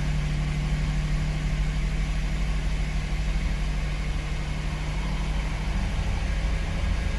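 Ford Windstar 3.8-litre V6 idling steadily, an even drone with no change in speed. The engine is running lean on both banks and has a cylinder 3 misfire code.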